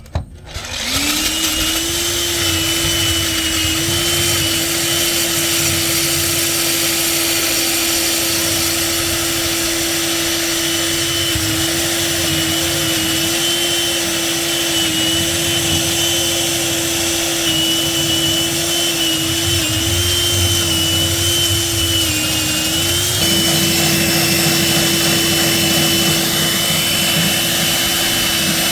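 Hilti diamond core drill starting and spinning up within about a second, then running steadily as it cuts, its pitch sagging briefly under load a little past two-thirds of the way through.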